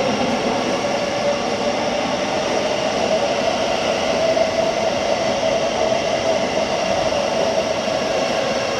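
Electric multiple unit, likely a Thameslink Class 700, running at the platform with a steady electric whine over rumbling noise; the main tone rises slightly in pitch midway and eases back down near the end.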